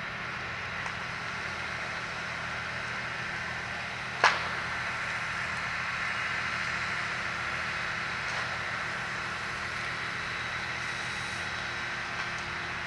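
Steady rushing noise over a low, even engine-like hum, the sound of a working fire scene, with one loud, sharp crack about four seconds in.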